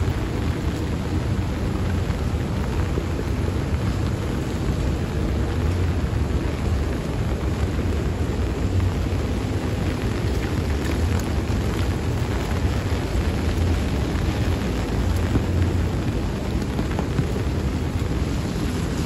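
Steady rain falling on a wet paved road, over a constant low rumble.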